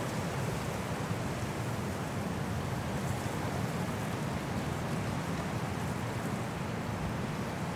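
High wind in a snowstorm rushing steadily through trees, a continuous low rush with no gusts standing out.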